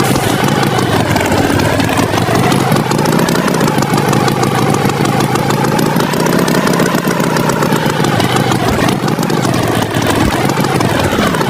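Animated tractor's engine sound effect running steadily, its pitch wavering up and down and dipping sharply then rising again near the end.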